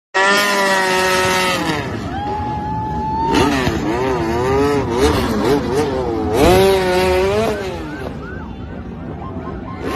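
Motorcycle engines revving hard: one held at a steady high pitch for the first second and a half, then several bikes overlapping, their pitch rising and falling in repeated blips of the throttle.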